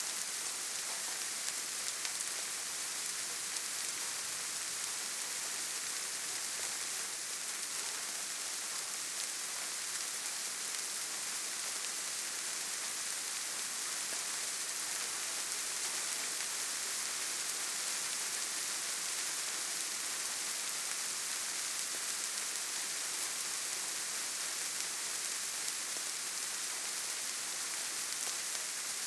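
Steady rainfall in a forest, an even hiss of rain pattering on leaves and ground.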